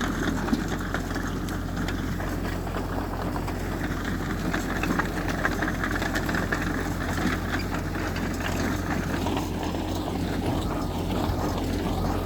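Heavy diesel engine of earthmoving machinery running steadily with a continuous low drone.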